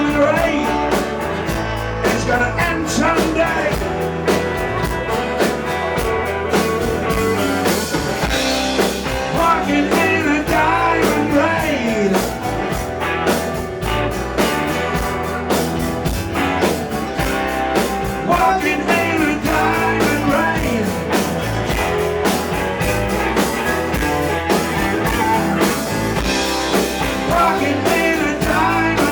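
Blues-rock band playing live: a lead electric guitar line with bent, wavering notes over bass and drums.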